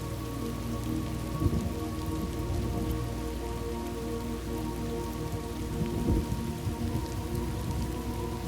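Steady rain with rumbling thunder, two louder rolls about a second and a half in and about six seconds in. Faint steady low tones sit underneath.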